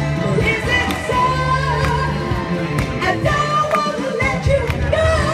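Live band music with a steady bass line, a regular beat and a gliding melodic lead line.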